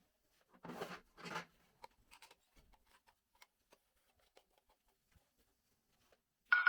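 Handling noises: two short scraping strokes about a second in and a few light clicks, then a sharp clink near the end that rings briefly.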